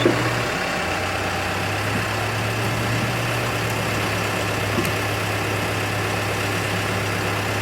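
A truck engine idling steadily with a low, even hum, with a short knock at the start and a fainter one about five seconds in.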